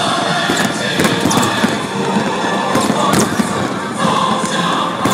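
Aerial fireworks bursting in an irregular string of bangs and crackles, several in a few seconds, over a steady hubbub of crowd noise.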